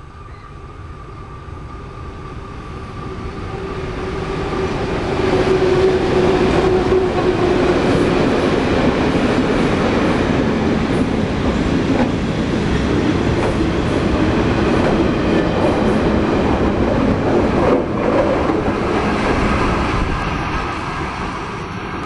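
Sri Lanka Railways Class M4 diesel locomotive and its mixed train of tank wagons and coaches passing: engine and wheels on the rails build up as it approaches, stay loud for about fifteen seconds as the wagons go by, then fade as the train moves away.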